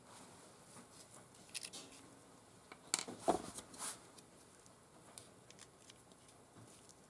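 Scattered light clicks and rustling of small parts being handled by hand, with the loudest cluster about three seconds in.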